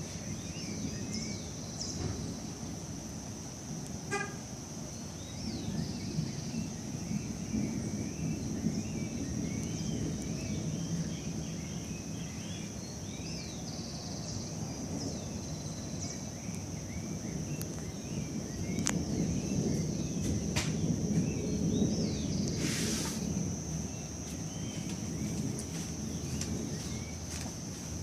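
Birds chirping over a steady high insect drone, with a low rumbling noise underneath that grows louder for a few seconds past the middle.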